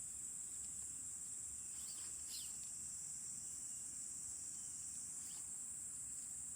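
Steady high-pitched chorus of insects trilling without a break, with a couple of faint short bird chirps about two seconds in and again later.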